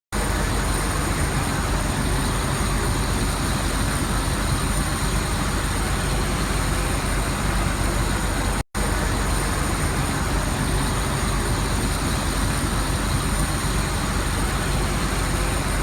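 Steady loud rushing noise with a deep rumble underneath, like a moving vehicle heard from inside, broken by a brief dropout a little past halfway.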